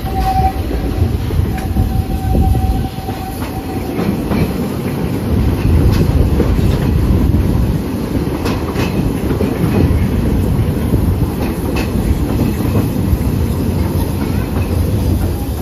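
A narrow-gauge steam train's passenger car rolling along, with a steady rumble and irregular clacks of the wheels over the rail joints. A faint thin whine runs through the first few seconds.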